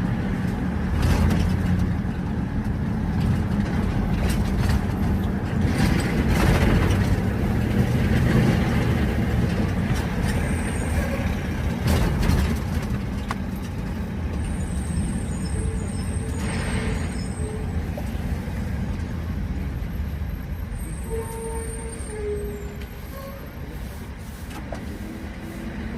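Road and engine noise of a car driving in traffic: a steady low rumble with tyre hiss and a few louder swells, easing off somewhat over the last few seconds.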